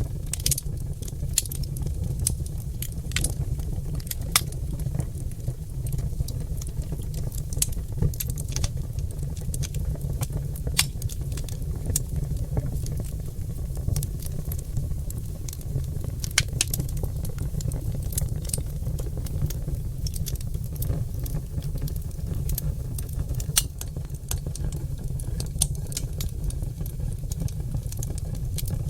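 Oak logs burning in a fireplace, crackling with frequent sharp, irregular pops over a steady low rumble.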